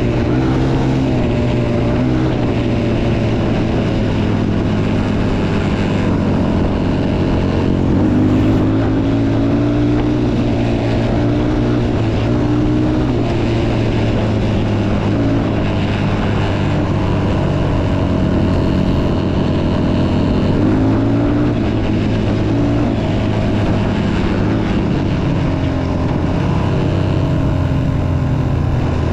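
Motocross dirt bike engine running while being ridden, its pitch rising and falling with the throttle.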